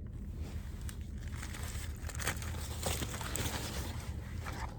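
Fast-food paper wrapper crinkling and rustling as it is handled, with scattered short crackles, over a steady low hum.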